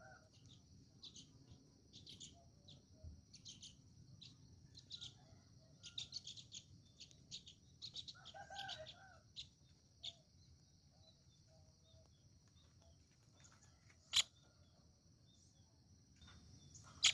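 Faint bird chirps, short high notes repeated irregularly, over a steady high-pitched hiss, with a brief lower call about eight and a half seconds in and a single sharp click near the end.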